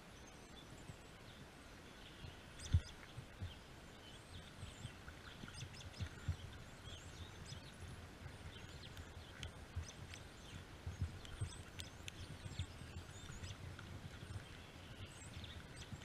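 A flock of small birds giving many short chirping calls in quick succession, with scattered low thumps, the loudest about three seconds in.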